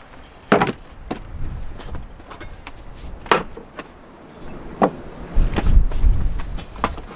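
A few sharp knocks and clunks, a second or more apart, over a low rumble of wind on the microphone.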